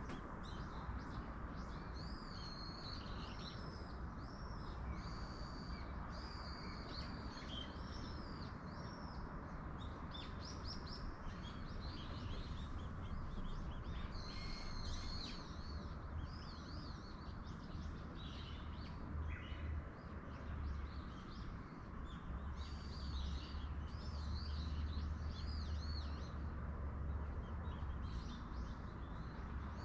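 Small birds chirping and calling again and again in quick, high warbling phrases, over a steady rushing background of wind with a low rumble.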